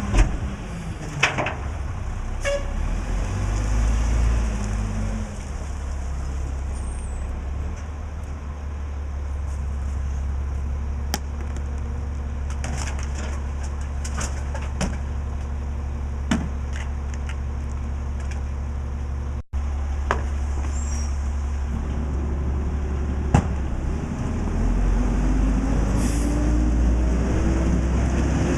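Mack LE garbage truck's diesel engine running steadily, with a few sharp knocks and clanks scattered through. Over the last few seconds the engine note rises.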